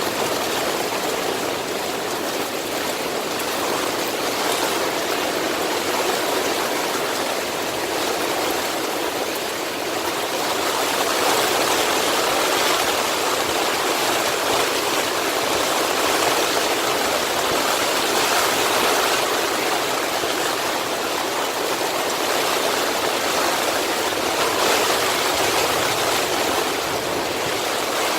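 Swollen mountain stream rushing steadily, its water high and fast after torrential rain.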